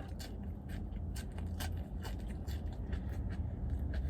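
Chewing crunchy fried chicken: irregular crisp crunches over a low steady hum.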